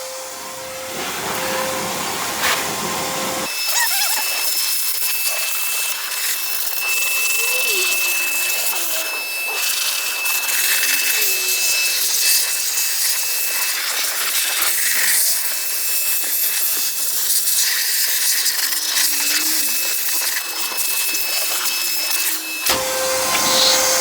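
Vacuum cleaner run in reverse as a blower, its motor whining steadily under a rush of air as it blows rinse water out of a freshly washed engine bay. About three and a half seconds in, the sound turns into a hissier rush of air with a thin steady whistle, and it goes back to the plain motor whine near the end.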